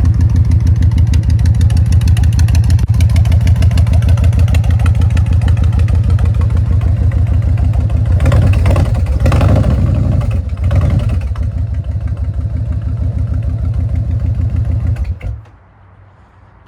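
Kawasaki Vulcan 2000's 2,053 cc fuel-injected V-twin idling with an even, loping beat shortly after a cold start. The throttle is blipped a couple of times about halfway through, and the engine shuts off suddenly near the end.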